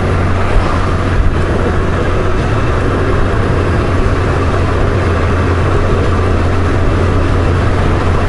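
Honda Gold Wing GL1500 motorcycle under way, its flat-six engine running at a steady cruise with a constant low hum under a rush of wind and road noise.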